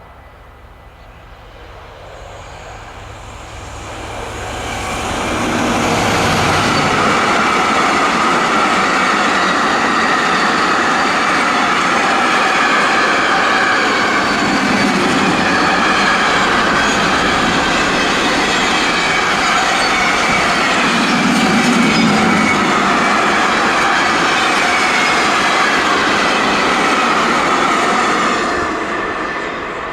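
G2000 diesel locomotive approaching with a low engine hum that grows louder over the first six seconds, then a long string of container wagons rolling past at a steady loud level, with high wavering wheel squeal over the rumble. The noise eases off near the end as the train goes by.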